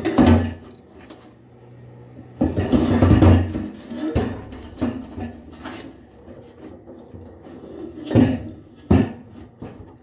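Irregular knocks, clunks and scraping of car parts and tools being handled during hands-on repair work, with a longer rubbing scrape about two and a half seconds in and two sharper knocks near the end.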